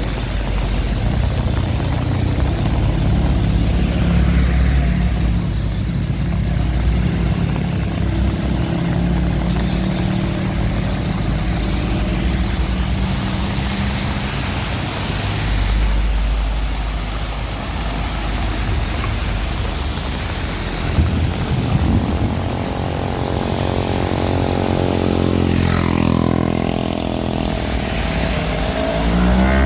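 Heavy rain falling, with motor vehicle engines running close by; in the last few seconds one vehicle's engine slides down and then up in pitch as it passes.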